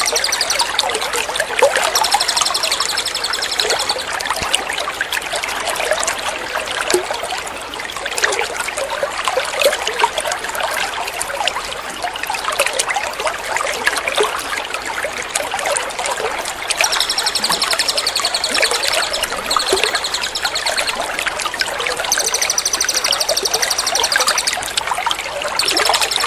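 Running water trickling and splashing without a break, with a small songbird's high, rapid trill in bouts: briefly about two seconds in, then again for several seconds near the end.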